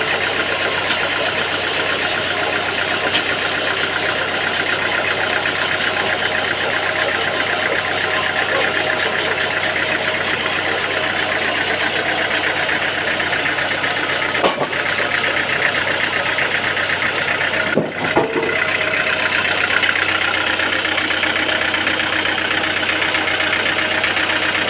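An engine running steadily, with two brief breaks in the sound past the middle.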